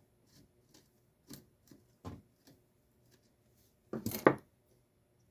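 Light clicks and taps of hard parts being handled while a garage door opener is taken apart, then a louder quick clatter about four seconds in.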